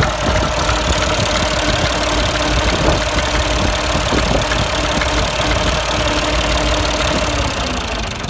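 Allis-Chalmers tractor engine idling steadily.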